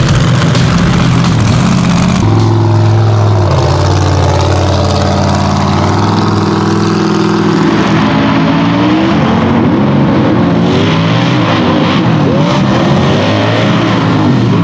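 Off-road race vehicle engines revving hard, their pitch repeatedly rising and falling as they accelerate and back off.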